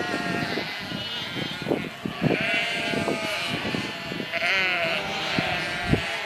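Sheep bleating, several quavering calls in turn, with short knocks and clatter between them.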